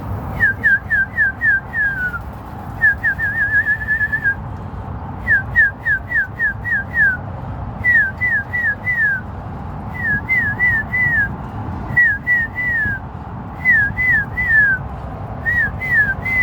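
Clear whistled notes that each slide down in pitch, given in quick runs of three to six with short pauses between runs, and one faster warbling run about three seconds in.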